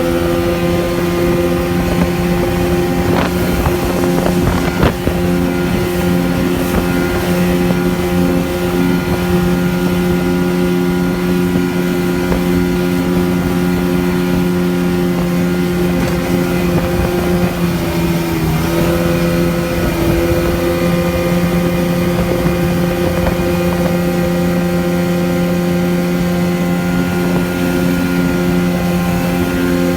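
Motorboat engine running steadily at speed, with wind noise on the microphone. The engine pitch dips briefly a little past the middle, then settles back.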